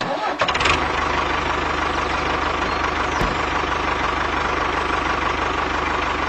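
A steady engine running sound, like an idling tractor, with a fast even pulsing underneath. It starts abruptly at the beginning and holds level.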